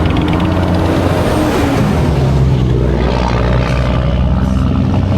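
Motorcycle engine running under way, with rushing wind noise; the engine note shifts down about two seconds in.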